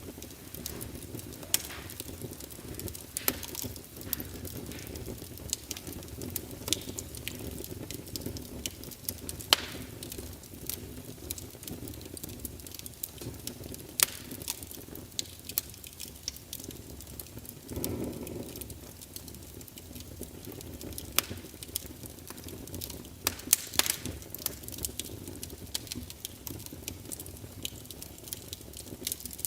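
Fire crackling: irregular sharp pops and snaps over a steady low rumble, with a brief swell of the low rumble a little past the middle.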